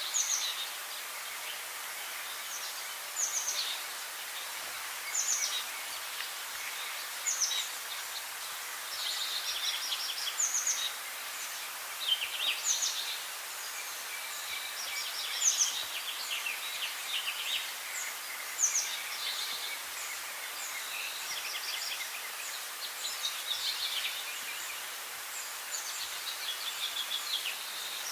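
Songbirds singing in short, high chirping phrases that recur every couple of seconds, over a steady background hiss.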